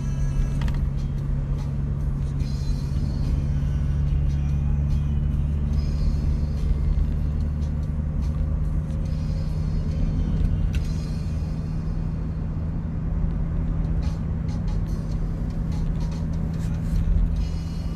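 A steady low rumbling drone, even throughout, with faint higher clicks and streaks over it.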